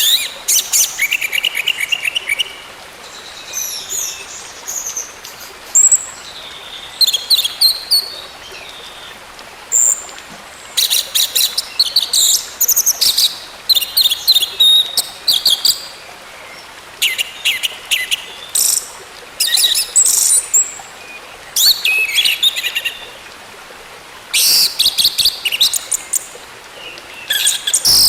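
Orange-headed thrush singing: a run of short phrases of rapid, chattering high notes, each a second or two long, with brief pauses between them.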